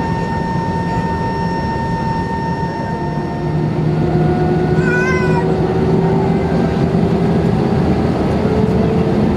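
Airbus A320 jet engines heard from inside the cabin, running steadily and then growing louder from about four seconds in, with a whine that climbs slowly in pitch as the engines spool up. A short wavering cry-like sound is heard about five seconds in.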